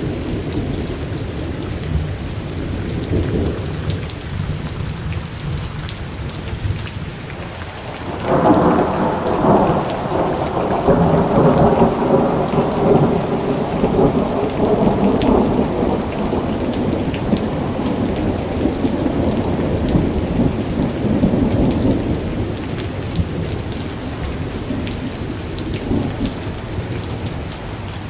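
Thunderstorm: steady rain with a low rumble of thunder, then about eight seconds in a sudden loud crack of thunder that rolls on for over ten seconds before fading back into the rain.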